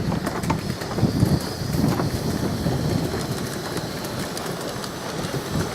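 Miniature steam railway train running along the track, with scattered irregular clicks over a steady rumble and wind buffeting the microphone.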